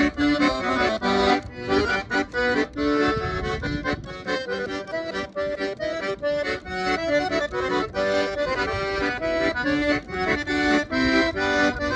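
Accordion (sanfona) playing a lively São João forró tune solo, a quick melody of short notes over chords.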